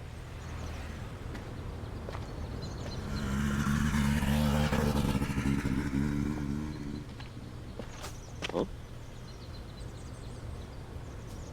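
A motor vehicle passes by, its engine sound swelling over a few seconds and then fading away, over a steady low hum.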